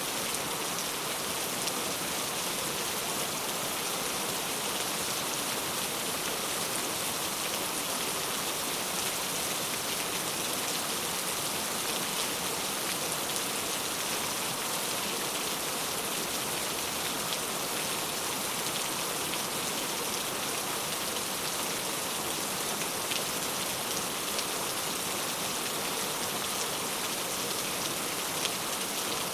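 Heavy rain falling steadily, an even dense hiss with scattered individual drops ticking.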